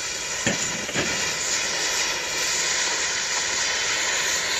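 Cutting torch running with a steady hiss, with two brief knocks about half a second and a second in.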